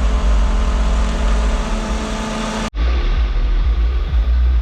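Saab 900 engine running at idle: a steady low rumble with a faint even hum. It breaks off for an instant about two-thirds of the way through, then carries on.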